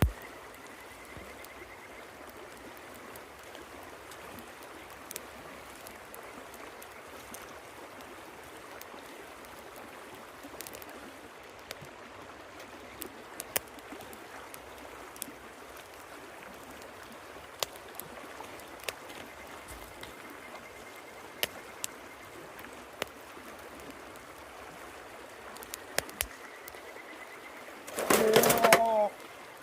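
River water running steadily, with scattered sharp clicks and crackles, plausibly from the campfire. Near the end a dove coos loudly.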